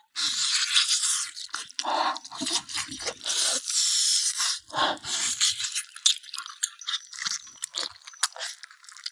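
Eating sounds of someone gnawing and chewing braised pig trotter: a run of irregular wet smacks, scrapes and crunches.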